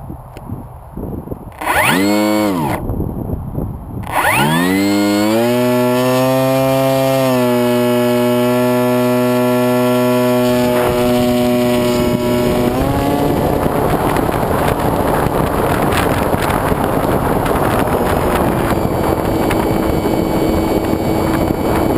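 RC foam plane's motor and propeller heard from a camera on the wing. The motor is briefly blipped up and down, then winds up to a steady high whine that shifts pitch slightly a couple of times. About halfway through, a rush of wind noise takes over.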